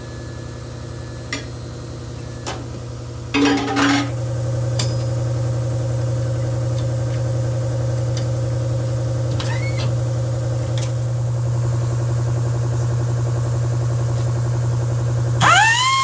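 Steady low machine hum with a few sharp clicks and a short clatter about three seconds in; music comes in near the end.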